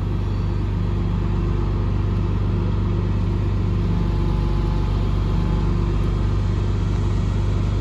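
Heavy machinery running steadily, a deep, even engine-like drone with a constant low hum and no change in speed.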